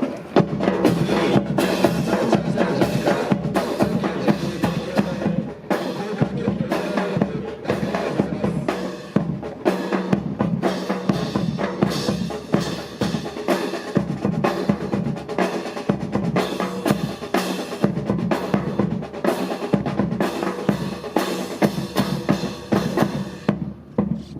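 Marching drum corps playing a continuous cadence on snare and bass drums accompanying a military fancy drill.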